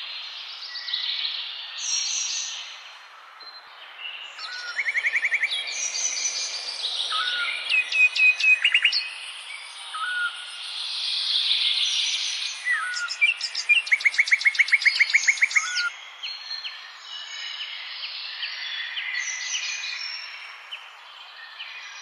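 Songbirds chirping and singing over a steady background hiss, with rapid trills of evenly spaced notes about five seconds in and again around fourteen to fifteen seconds in.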